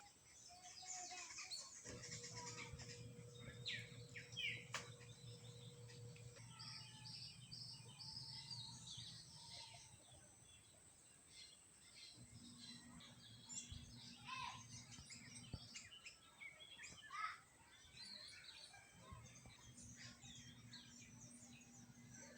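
Faint birdsong: many short chirps and calls from several birds, with a low steady hum that comes and goes.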